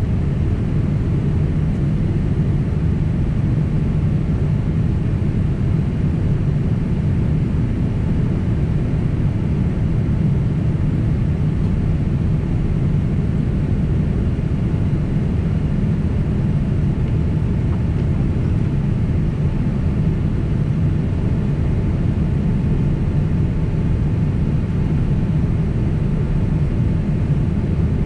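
Steady cabin noise of a Boeing 767 twin-engine jetliner in flight: an even, unbroken low rumble of engines and airflow heard from inside the passenger cabin.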